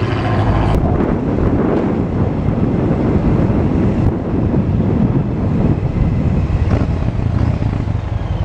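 Wind rushing over the microphone on a moving motorcycle, with the bike's engine running underneath.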